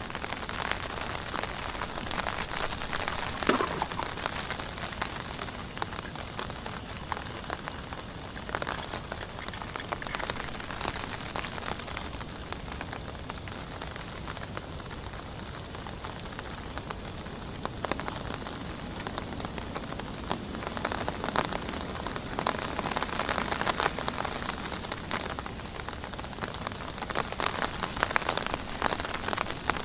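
Heavy rain falling, a steady hiss of many close drop impacts that grows a little denser near the end.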